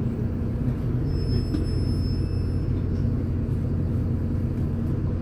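MAZ-203 city bus heard from inside while under way: a steady, even rumble from the engine and drivetrain. Faint high whistling tones come in briefly about a second in.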